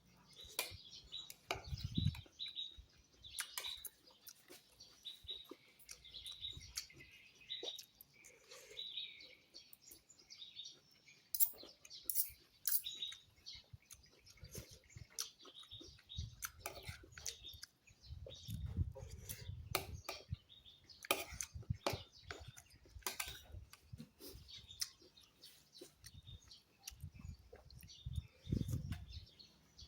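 Small birds chirping over and over, thickest in the first third, with sharp clicks scattered throughout and a few stretches of low thumping.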